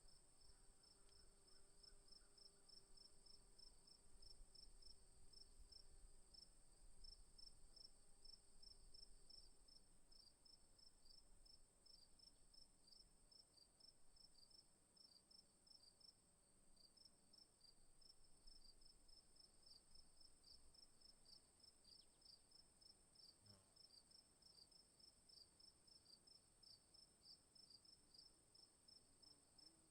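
Faint chorus of evening insects: a steady high-pitched trill, and a second insect chirping about three times a second.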